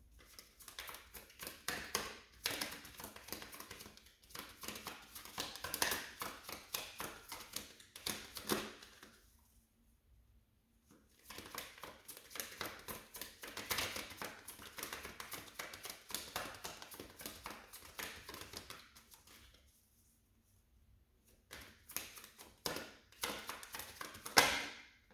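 A deck of tarot cards being shuffled by hand: rapid flicking and clicking of cards in three bouts with short pauses between them, ending in a sharp snap of the cards near the end.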